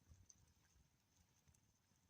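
Near silence, with a few faint, scattered clicks over a faint low rumble.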